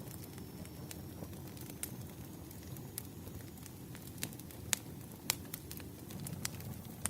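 Wood fire crackling: irregular sharp pops and snaps, two of them louder a little before and after five seconds in, over a steady low rumble.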